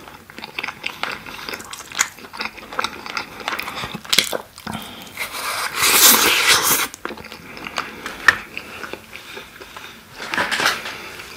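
A close-up recording of someone biting and chewing sauce-glazed grilled chicken skewer meat. There are wet, sticky chewing sounds and mouth clicks, louder about six seconds in and again near the end.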